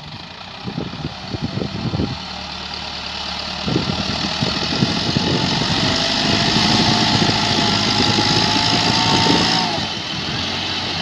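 Tractor diesel engine running, with uneven knocking pulses at first, then revving up from about four seconds in and running hard as it pulls a loaded trailer. It eases off just before the end.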